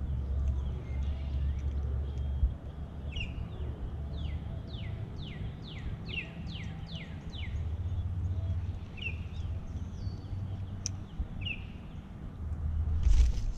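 A songbird singing a quick run of about seven down-slurred whistled notes in the middle, with single short chirps before and after, over a steady low rumble. A brief louder rushing noise comes near the end.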